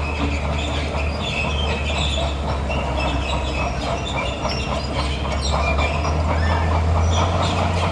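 Bulldozer's diesel engine running steadily, with its steel crawler tracks squealing and clanking as it moves.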